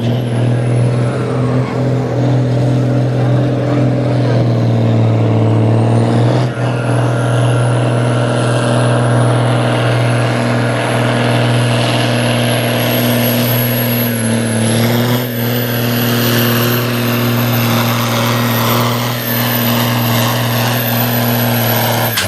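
Ursus tractor's diesel engine running hard at a steady high pitch for the whole stretch, with a slight change in tone about six seconds in.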